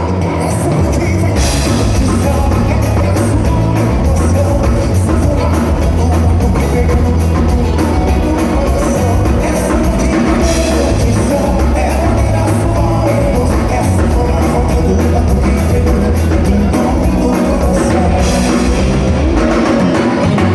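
Live band playing vanera, gaúcho dance music, over a steady drum-kit beat.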